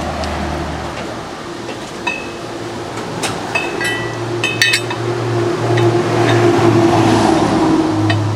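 Metal clinking on metal: a few scattered clinks and then a quick cluster in the middle, each with a short ring, over a steady mechanical hum that grows louder towards the end.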